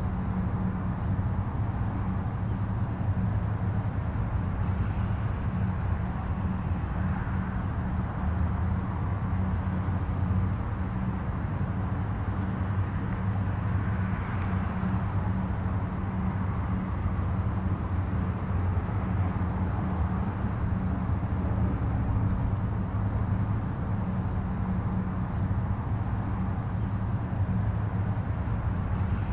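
Distant highway traffic: a steady low rumble of tyres and engines, swelling slightly as vehicles pass about 5 and 14 seconds in. A faint, high, evenly pulsing trill sits above it.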